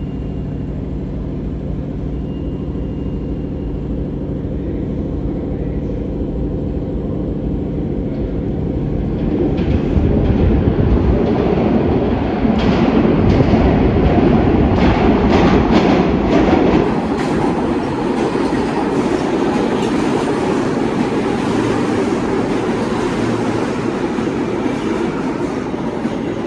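New York City subway train on the L line: a steady hum at first, then from about ten seconds in a louder rumble with repeated clacks of wheels over rail joints. It is loudest for several seconds before settling to a steadier rumble.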